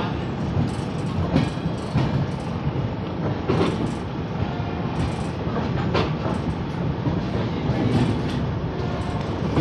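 Passenger train running on the track: a steady rumble of wheels on rail, with irregular sharp clacks as the wheels cross rail joints.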